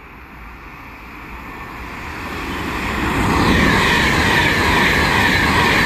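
Class 390 Pendolino electric express train approaching and passing at speed. The rush of noise builds over the first three seconds and then stays loud, with falling whines over the top.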